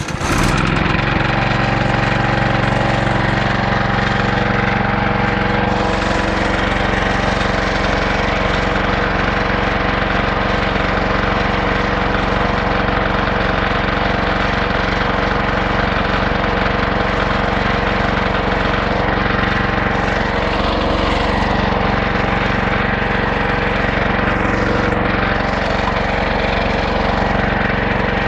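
14 hp 420cc small gas engine of a homemade bandsaw sawmill catching right at the start and then running at a steady speed.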